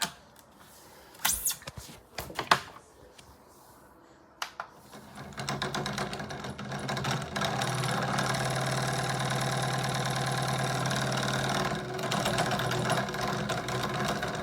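A few handling clicks and knocks, then about five seconds in a small electric motor starts and runs with a steady hum: the fan of a mini evaporative air cooler.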